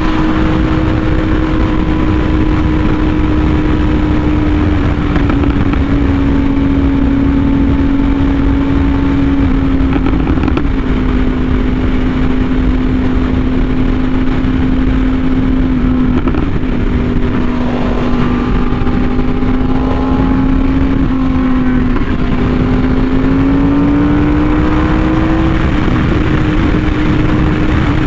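Yamaha R1M's crossplane inline-four through an SC Project exhaust, cruising on part throttle: the engine note sinks slowly, rises again about three-quarters of the way through as the throttle opens, then holds steady.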